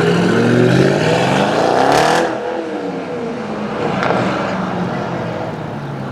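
A sports car's engine revving hard as it accelerates, pitch climbing for about two seconds, then dropping away as the car goes by. There is a second, smaller rise in revs about four seconds in.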